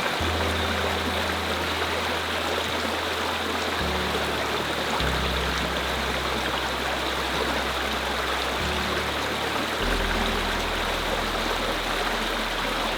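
Steady rush of river water under calm ambient music, whose low sustained notes shift every few seconds.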